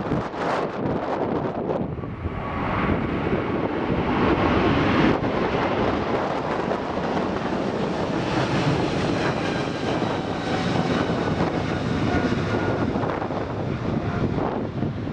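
Jet airliner engines sounding as the aircraft passes: a broad roar that builds from about two seconds in and is loudest around five seconds, with a faint high whine later. Wind buffets the microphone.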